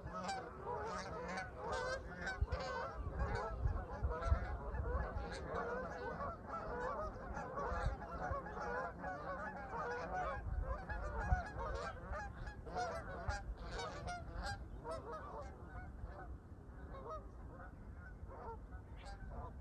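A flock of Canada geese honking and chattering, many calls overlapping without a break, thinning slightly toward the end.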